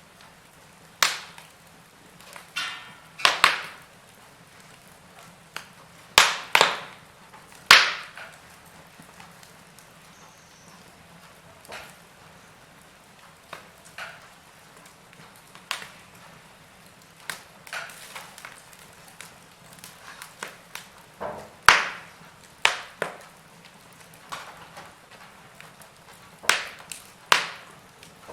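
Wood fire in a fireplace crackling: logs popping and snapping at irregular intervals, a few sharp louder cracks among softer ticks, over a faint steady hiss.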